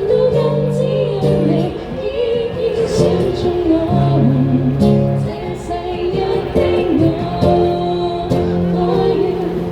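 A street band playing a song live, with a sung melody over steady instrumental accompaniment.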